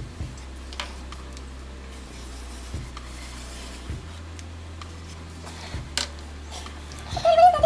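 Pens scratching on paper with occasional light taps over a steady low hum. Near the end a cat meows loudly once.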